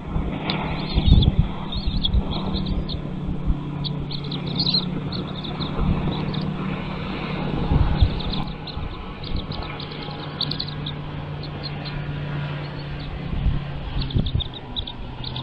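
Small birds chirping in quick series of short, high cheeps, over a low steady hum.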